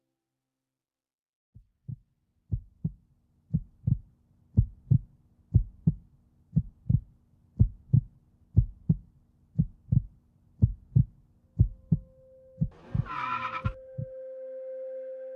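Heartbeat sound effect: paired lub-dub thumps about once a second over a faint low hum, starting after a moment of silence. The beats stop near the end, and a steady, even tone takes over.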